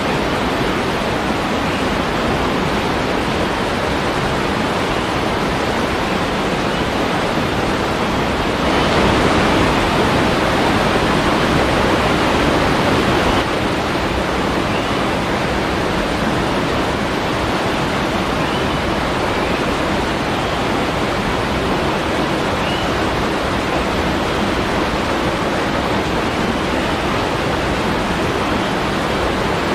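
Steady rushing of falling water, as from a waterfall. It grows louder for a few seconds about nine seconds in, then drops back suddenly.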